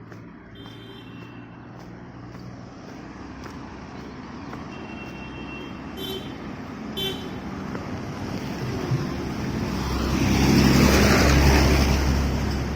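Road traffic growing louder, with a heavy vehicle passing close about ten seconds in, its deep rumble the loudest part. Several short horn toots sound during the first seven seconds.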